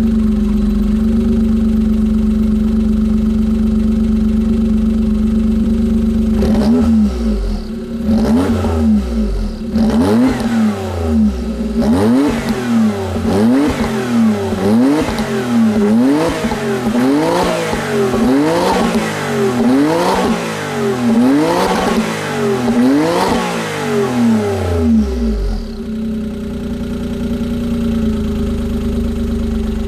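Suzuki Alto Works HA11S's small turbocharged three-cylinder engine through a Suzuki Sport TYPE-St aftermarket muffler, idling steadily, then revved again and again in quick blips for about twenty seconds, each one rising and falling, before it settles back to idle.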